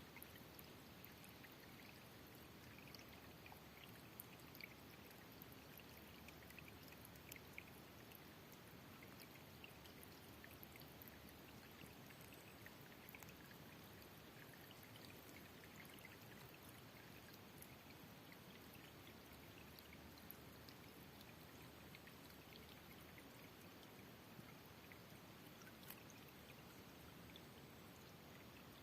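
Near silence: a faint steady hiss with many tiny scattered ticks.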